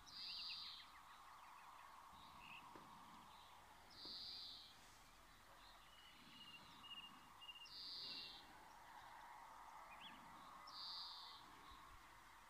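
Faint nature ambience: a bird gives a short, high call about every four seconds, with a few fainter chirps between, over a steady background hiss.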